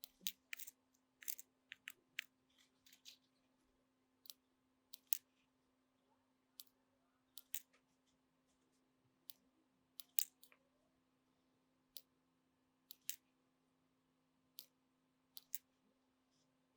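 Sharp, irregular clicks and snips from small hand tools at a workbench, about twenty spread unevenly, some in quick pairs, over a faint steady hum.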